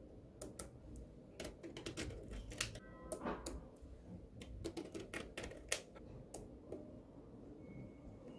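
Small magnetic balls clicking as they snap together and are pressed into place, in quick irregular clicks several a second.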